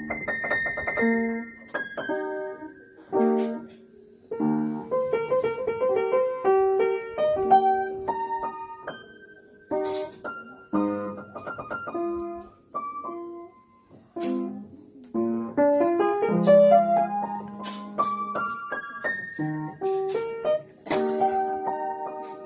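Background piano music: single struck notes and short runs, some chords, starting and pausing in phrases.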